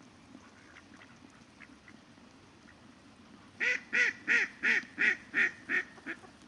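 A duck quacking: a run of about eight loud quacks, about three a second, starting a little past the middle and trailing off at the end, over a faint background of river water.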